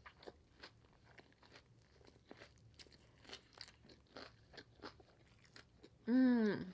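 Close-miked chewing of crunchy food: irregular small crunches and mouth clicks. Near the end it ends in a short hummed 'mmm' of enjoyment.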